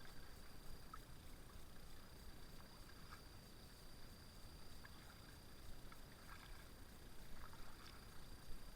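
Faint kayak paddle strokes: the blades dipping into the river with soft splashes and drips every second or two.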